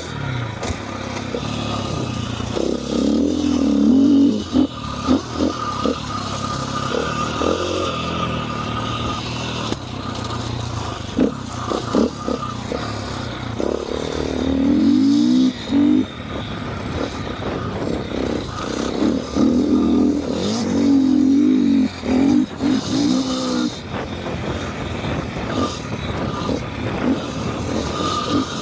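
KTM 450 four-stroke single-cylinder dirt bike engine being ridden hard, the revs climbing and falling again and again as the throttle is opened and chopped, with several brief sharp drops in between. Short clatters and knocks run through it.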